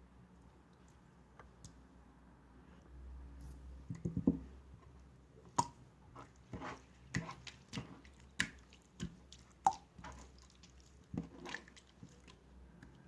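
Slime being squished and pressed by hand: after a few quiet seconds, a string of irregular wet clicks and pops.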